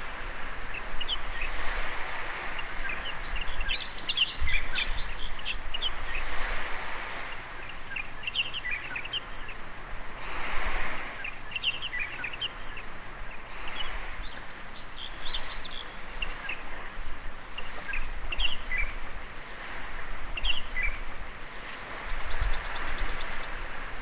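Small waves washing in at the water's edge of a sandy beach, the surf swelling and ebbing every few seconds. Birds chirp in quick, high notes throughout, with a rapid run of chirps near the end.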